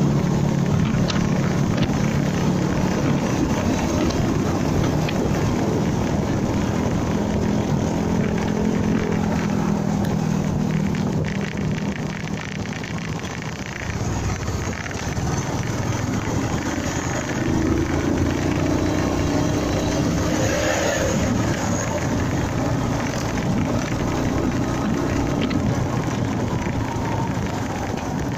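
Honda MegaPro Primus single-cylinder motorcycle engine running on the move, with wind and road noise. Its note sags about halfway through, then climbs again as it picks up speed.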